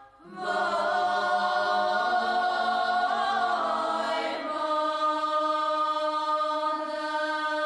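Background music of voices singing long held chords, like a choir or chant, moving to a new chord about halfway through.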